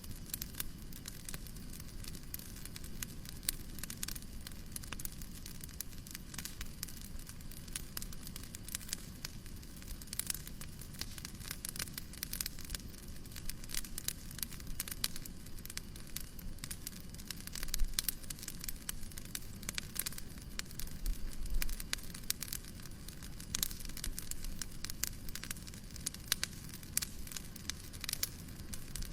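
Fireplace crackling with frequent sharp pops over a steady low hiss of white noise, with one louder pop a little past the middle.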